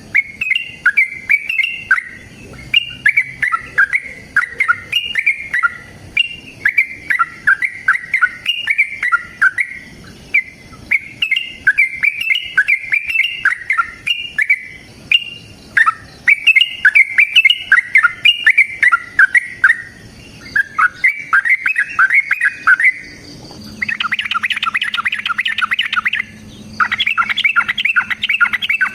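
Yellow-vented bulbul singing loudly: a continuous run of short bubbling, chirping phrases, changing about 24 seconds in to fast, rapid-fire chattering trills in two long stretches.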